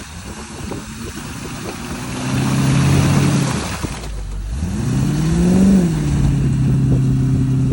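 Range Rover engine revving while the vehicle is stuck in mud: the engine note holds, dips, then climbs and falls back before settling, over a steady hiss.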